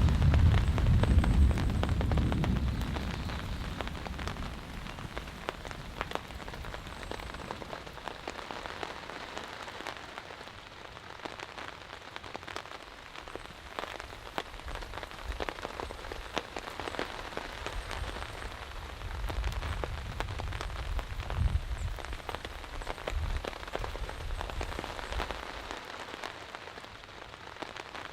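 Heavy rain falling steadily, with many individual drops ticking. A low rumble of thunder dies away over the first few seconds, and fainter low rumbles return in the second half.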